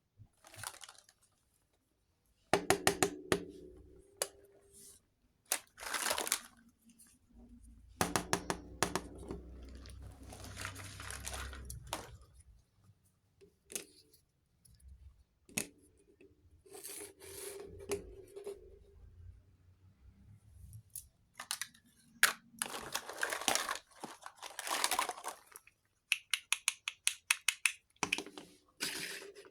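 Unboxing of miniature toy kitchenware: packaging rustling and tearing, broken up by runs of quick clicks and taps as the small plastic and metal pieces are handled. The sounds come in separate bursts with short pauses between them.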